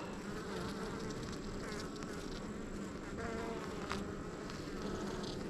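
Honeybees buzzing steadily in a dense, continuous hum around an open hive during a frame inspection. The colony is somewhat loud, stirred up by the hive being opened after a month without disturbance.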